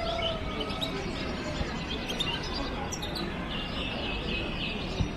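Many caged songbirds chirping and twittering together, with a denser stretch of twittering about three and a half seconds in.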